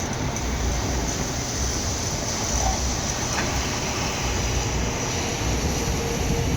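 Steady machine noise: a low rumble under a constant hiss, with a faint high whine throughout.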